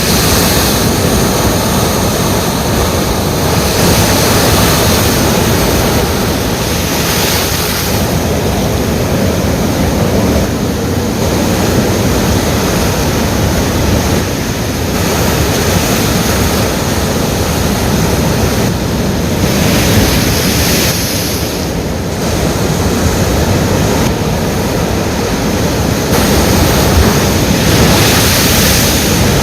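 Ocean surf: waves breaking and washing on the shore, a loud, continuous rush of water that swells every few seconds.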